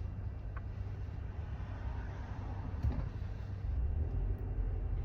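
Low, steady rumble of a car's engine and road noise heard from inside the cabin while driving, getting louder near the end, with a faint knock about three seconds in.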